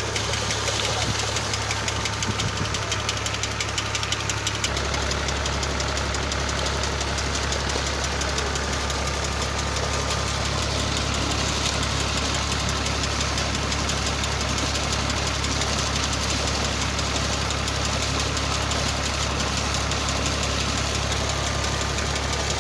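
New Holland Ghazi tractor's diesel engine running steadily under load, turning the shaft of a tubewell pump; its low hum shifts slightly about five seconds in.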